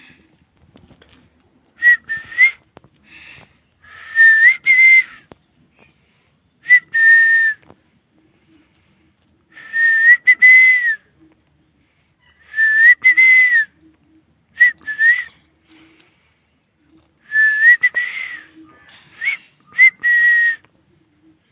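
Parrot giving a series of short, high whistled calls, about ten phrases with gaps between, each bending up and down in pitch with a raspy edge.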